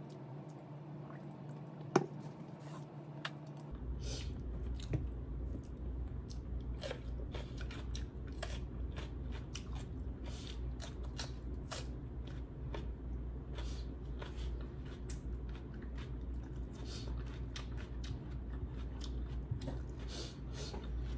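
Person eating close to the microphone: chewing with many small wet clicks and smacks, and a sharp click about two seconds in. A steady low hum runs underneath from about four seconds in.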